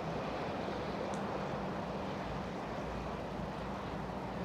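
Steady harbour noise with a low, even engine hum from boat traffic, and some wind on the microphone.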